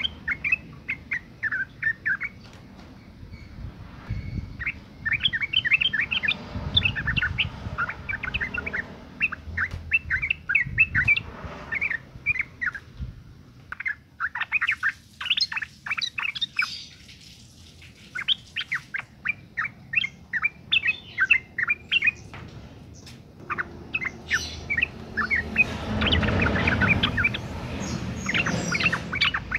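Female yellow-vented bulbul (trucukan) calling in fast bouts of short chattering notes, broken by brief pauses. This is the breeding-condition female call used as a lure to set male trucukan singing. A low rumble sits under the calls near the end.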